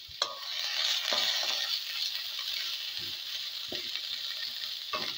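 Pointed gourd leaves and stems sizzling as they fry in a little oil in a kadai, stirred with a spatula that knocks and scrapes against the pan a few times. The sizzle swells about a quarter second in as the leaves are turned.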